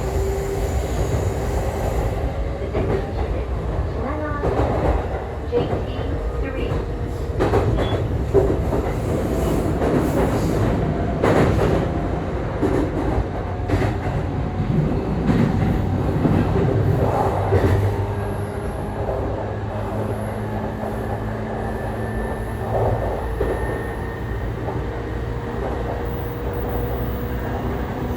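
JR E531 series electric multiple unit running, heard from inside the car: a steady rumble with wheels clacking over rail joints and points, busiest in the first two-thirds, and a faint steady motor whine in the second half.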